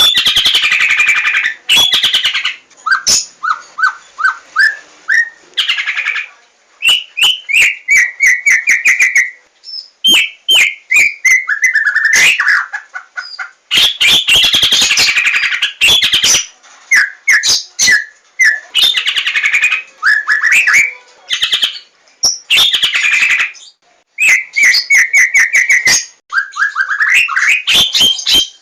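Javan white-rumped shama (murai batu) singing loudly in rapid, varied phrases. Clear rising and falling whistled notes run together with harsh chattering bursts and sharp clicks, with brief pauses between phrases.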